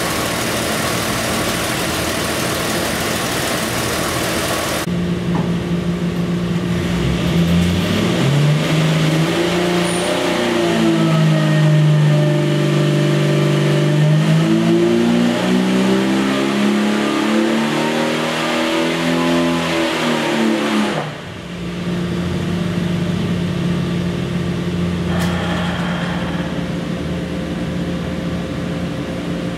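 Jeep 4.6-litre stroker inline-six engine running on an engine dyno: it idles steadily, then makes a full-throttle pull whose note climbs for about fourteen seconds. The throttle snaps shut about two-thirds of the way in and it falls back to a steady idle.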